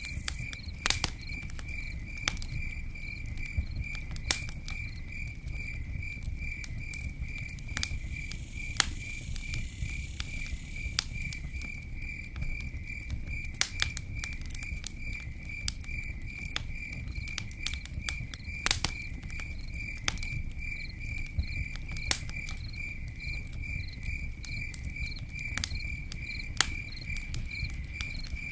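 Campfire burning with a low steady rumble, broken by sharp crackles and pops every second or so. Over it an insect chirps steadily with an even, rapid pulse.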